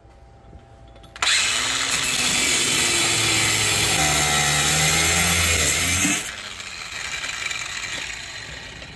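Power tool cutting through the scale's metal hook: it starts about a second in, cuts for about five seconds with its pitch shifting under load, then winds down more quietly.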